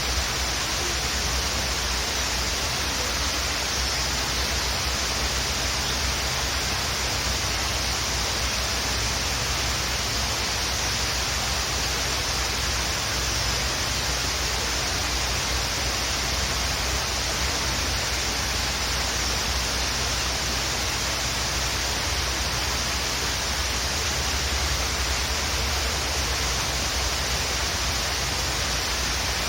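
Waterfall rushing steadily, with a few faint bird chirps now and then.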